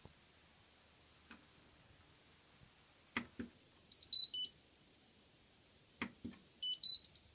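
Hotpoint washing machine control panel: two button clicks, then a falling three-note electronic beep, then two more clicks and a rising three-note beep, as the machine is switched off and back on.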